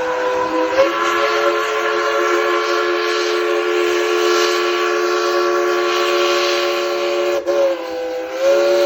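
Steam whistle of Tweetsie Railroad locomotive No. 190, a narrow-gauge 4-6-0, blowing a long blast of several notes sounding together for about seven seconds. It then cuts briefly and sounds again with the pitch sagging and swelling as the valve is worked.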